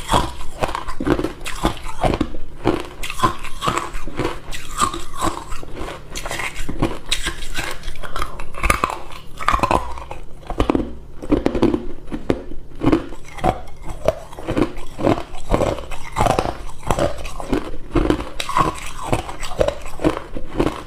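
Close-up chewing of hard ice cubes: a continuous run of sharp crunches, several a second.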